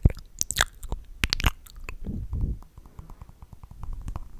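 Mouth sounds: a run of sharp, wet clicks and smacks with biting and chewing, then a softer stretch of lower mouth noise about two seconds in, and sparser small clicks after it.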